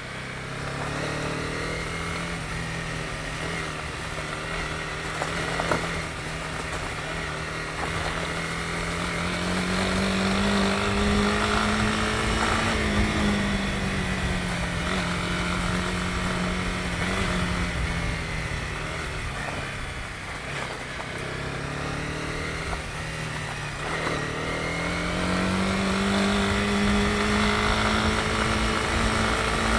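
Honda CB250R's single-cylinder engine running under way, its pitch climbing as the bike accelerates, easing off, and climbing again twice, over a steady rushing noise.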